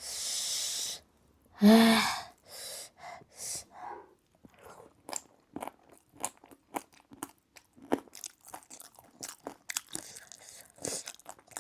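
Close-up chewing and crunching of food, with many small sharp clicks of the mouth. It opens with a second-long hiss of breath and a short voiced sound.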